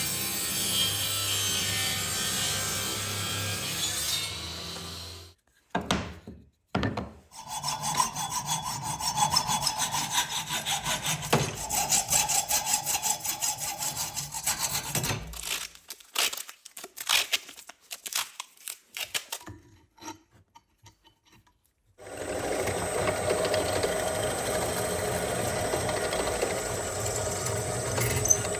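Knife handle material being sawn by hand, in short cut-together takes of rhythmic back-and-forth strokes separated by brief silences. For the last several seconds a steady machine sound takes over.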